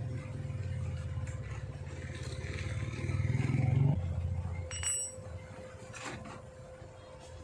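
Small motorcycle engine running, its exhaust note rising in revs and loudness until about four seconds in, then dropping off and fading.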